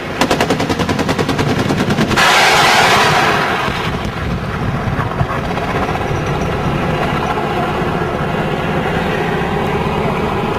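Automatic cannon fire, typical of an Apache helicopter's 30 mm chain gun: a burst of about two seconds at roughly ten rounds a second, followed by a steady rumble.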